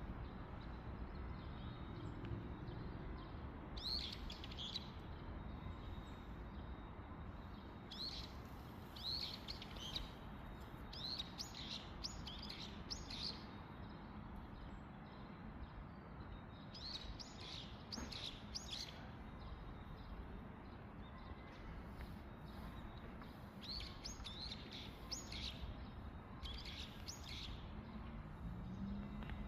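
Small birds chirping in clusters of short, high, quick notes with pauses of a few seconds between, over a steady low rumble.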